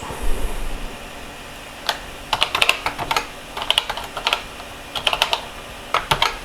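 Keys being typed on a computer keyboard, in several quick bursts of keystrokes with short pauses between them.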